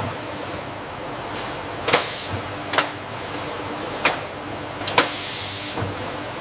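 Factory machinery noise: a steady hiss and hum broken by four sharp knocks spaced roughly a second apart.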